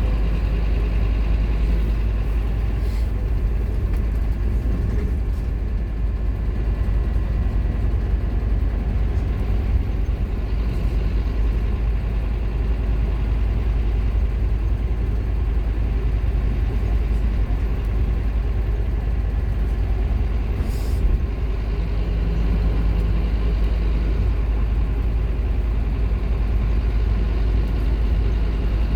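Scania K230UB Omnilink bus's five-cylinder diesel engine running under way, heard from on board the bus: a steady, heavy low rumble with a brief click about 21 seconds in.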